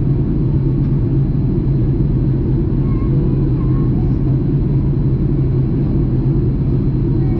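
Cabin noise of a Boeing 737 MAX 8 in flight: a steady low drone from its CFM LEAP-1B engines and the airflow, with a constant low hum.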